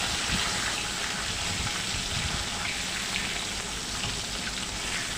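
Pieces of katla fish frying in a hot kadai: a steady sizzle.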